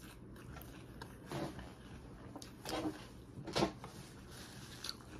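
A person chewing a mouthful of salad greens and shrimp with the mouth closed: three brief, soft mouth noises about a second apart, over a low room hum.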